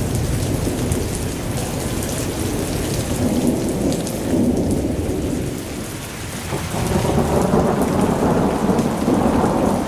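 Blizzard ambience: a steady low rush and rumble of storm wind, with faint scattered crackles of a wood fire. The rush dips about six seconds in, then swells back.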